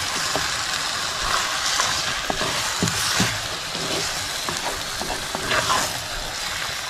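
Raw chicken pieces sizzling in hot oil and ground masala paste as a wooden spatula stirs them through, giving a steady frying hiss. Scattered knocks and scrapes of the spatula and chicken against the pot come through it.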